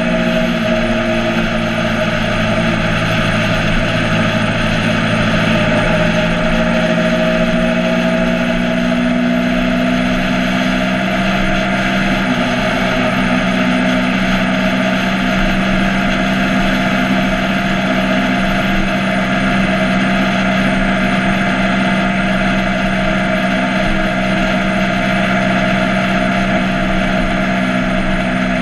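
Motorcycle engine running at a steady pace, its pitch shifting slightly now and then, over a steady rushing noise.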